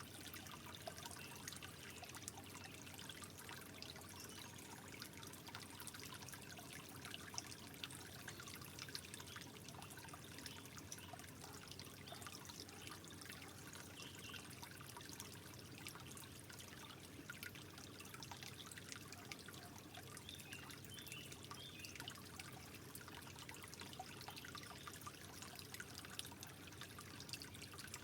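Water trickling and dribbling softly and steadily, with many small drops and splashes.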